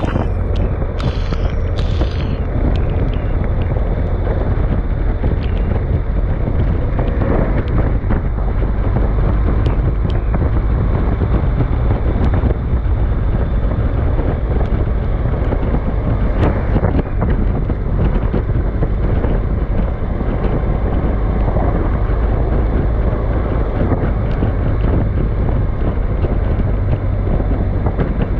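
Storm wind blowing hard across the microphone: a loud, steady rushing noise with heavy low rumble from wind buffeting, and a few short crackles in the first two seconds.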